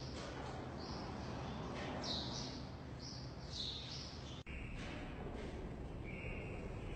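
Faint, high-pitched chirps of small birds, repeating every second or so over a steady low background hum. The sound cuts out for an instant about four and a half seconds in, and lower-pitched chirps follow.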